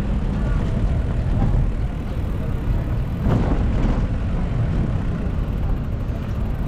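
City street traffic with wind rumbling on the microphone while riding along the road; the noise swells a bit over three seconds in.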